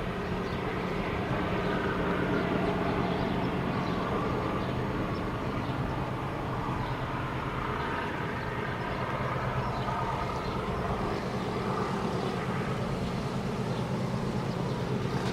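Diesel freight locomotive engine running with a steady, deep drone that swells slightly and settles again.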